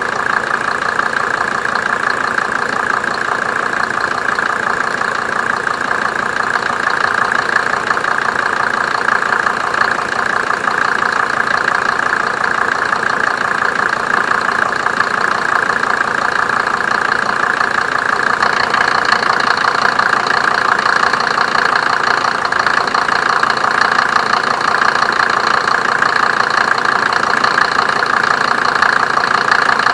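Mercedes OM602 2.5-litre five-cylinder turbo diesel idling steadily with its typical diesel knock while running on Diesel Purge injector-pump cleaner. It gets slightly louder about two-thirds of the way through.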